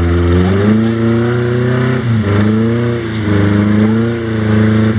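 Rock crawler's engine revving hard under load while climbing a rock ledge. Its pitch climbs, falls back sharply about two seconds in, then climbs again.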